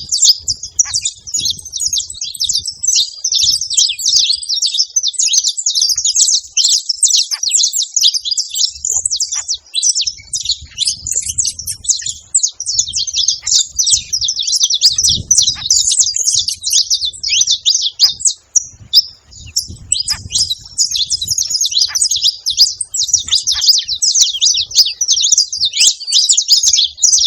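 Saffron finch singing a long, fast run of high chirping song with hardly a pause, breaking off briefly a little past the middle before going on.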